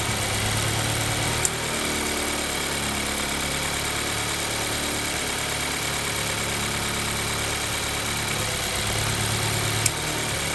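2014 Mazda 3's 2.0 L four-cylinder engine idling cold during a cylinder drop test, its ignition coil packs unplugged one at a time. The idle runs steadily, with two sharp clicks about eight seconds apart and a change in the engine's low note between them; at cold no cylinder shows up as the dead one.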